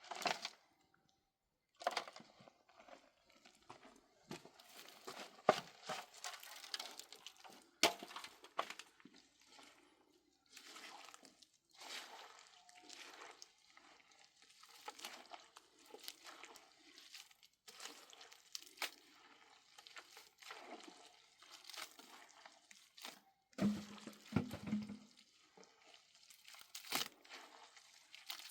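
Irregular crunching, scraping and sharp knocks of hands-on work, some of them loud, with a short low pitched sound about two thirds of the way in.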